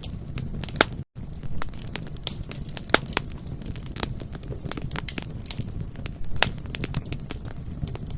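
Bonfire burning, the wood crackling with irregular sharp pops and snaps over a steady low rumble of flame, broken by a brief dropout about a second in.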